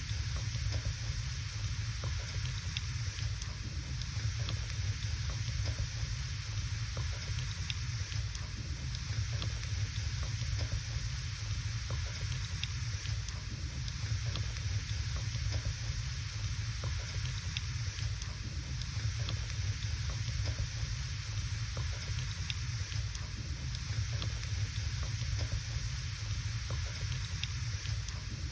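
Wood fire burning in a fireplace: a steady hiss and low rumble with small scattered crackles of the burning logs.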